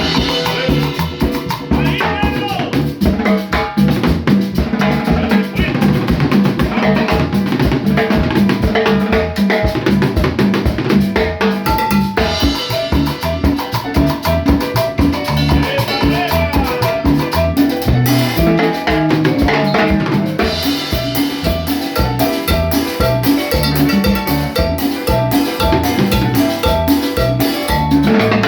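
Kumbia lagunera music playing: a steady, even drum-kit beat with percussion under pitched melody lines.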